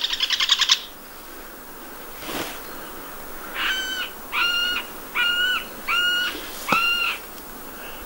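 A bird calling from the trees: a short fast rattle at the start, then about three and a half seconds in, five short, even-pitched notes at a steady pace, about two-thirds of a second apart.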